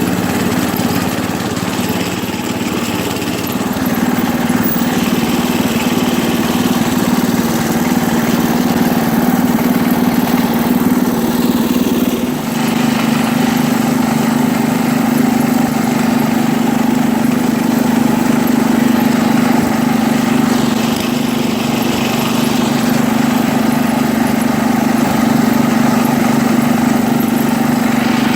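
Engine of a 1973 International Harvester Cub Cadet 86 garden tractor running steadily as it drives along. The engine note shifts at about three seconds in and again at about twelve seconds in.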